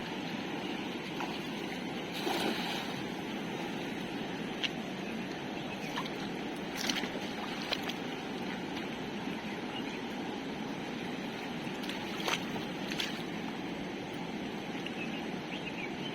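Steady rush of a fast-flowing flooded river, with a few brief sharp splashes or knocks scattered through, the clearest about 2, 7 and 12 seconds in.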